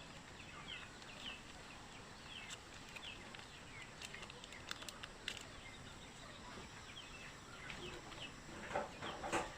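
Faint bird chirping: many short, high, falling chirps scattered throughout, with a few soft clicks in the middle.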